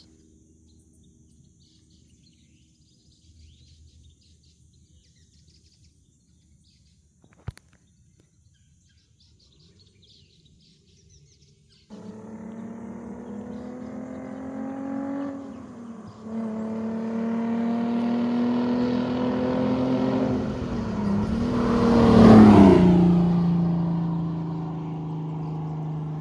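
Faint birdsong, then about twelve seconds in the 2003 Audi A4 with its exhaust cut off (open headers with the catalytic converters kept) comes into hearing suddenly, accelerating through the gears. A shift drops the pitch a few seconds later, the car grows loudest as it passes, then runs on steadily. For open headers it sounds kind of quiet and tame.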